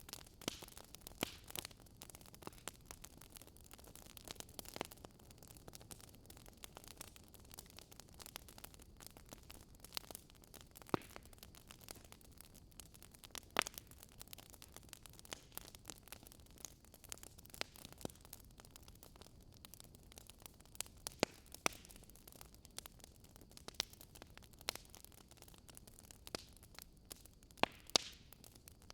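Wood fire crackling: irregular sharp pops and snaps over a soft steady hiss, with a few louder pops midway and near the end.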